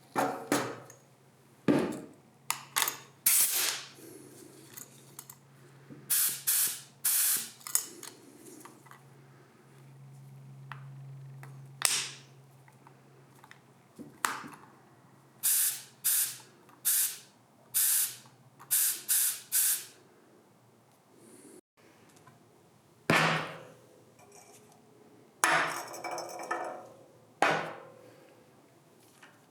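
Compressed-air spray gun fired in many short bursts of hiss, each under half a second, with a faint low steady hum under the first half.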